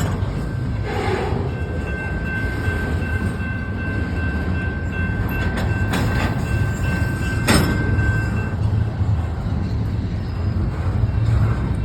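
Freight train cars rolling past at track level: a steady low rumble of wheels on rail, with a thin steady high tone through the first part and a few sharp clacks about two-thirds of the way through.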